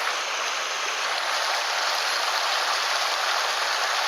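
Mountain stream water rushing over rocks, a steady even flow.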